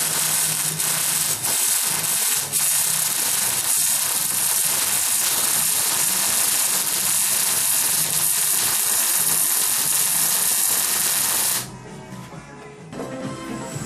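Pulse jet engine running with a loud, steady buzzing rush that cuts off suddenly about eleven and a half seconds in, leaving radio music.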